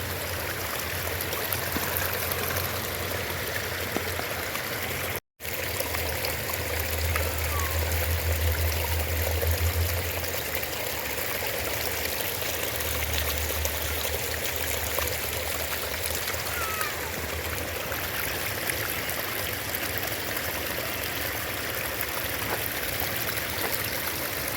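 Shallow creek water rushing over small waterfalls in a steady splashing flow, with a low rumble that swells twice and a sharp dropout about five seconds in.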